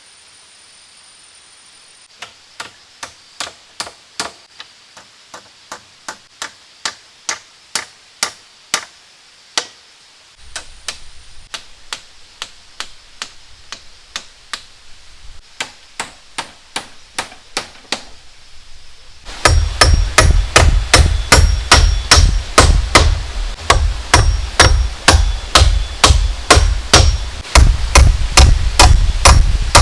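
Hammer blows struck in a steady rhythm, about two a second, starting about two seconds in; about two-thirds of the way through they become louder and faster, about three a second.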